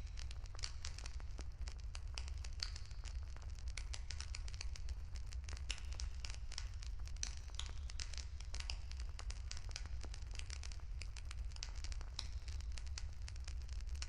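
Wood fire burning, with many quick, irregular crackles and pops over a steady low rumble.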